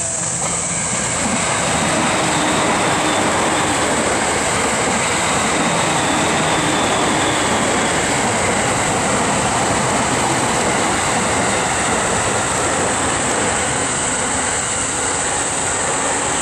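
JR East E231 series electric commuter train passing close by: a steady rush and rumble of steel wheels on rail that rises about two seconds in and then holds level as the long train goes by.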